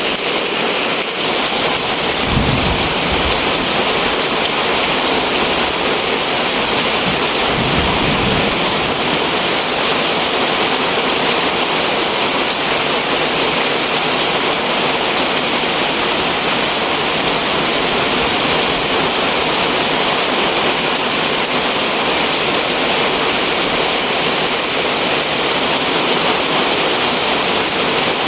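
Heavy rain falling steadily, a dense even hiss, with two brief low rumbles in the first ten seconds.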